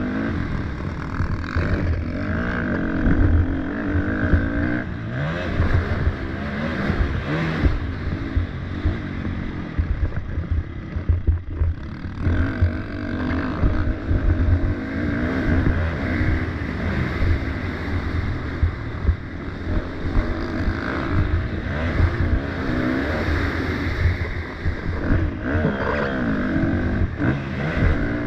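Motocross dirt bike engine racing, its pitch climbing and falling as the throttle is worked and gears change, over a heavy low rumble. The engine drops off briefly about eleven seconds in, then picks up again.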